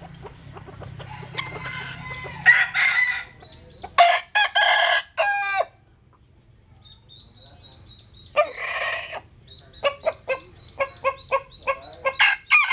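Bantam roosters crowing, one full crow ending on a drawn-out falling note about four seconds in, with a fainter crow before it. Short clucks follow in a quick run near the end, and another crow begins right at the close.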